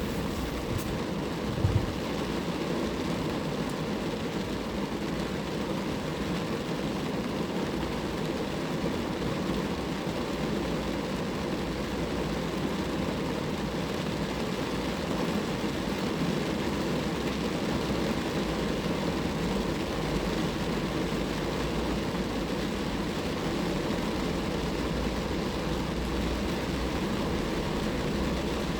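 Steady rain falling on a car's body, an even wash of drops, with a brief knock about two seconds in.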